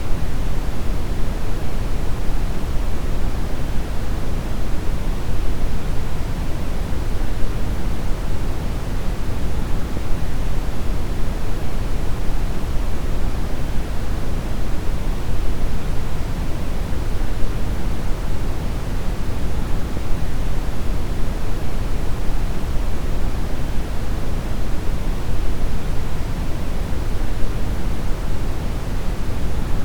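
Steady synthetic brown noise: an even, deep rumbling hiss with most of its weight in the low end and little in the highs, unchanging throughout.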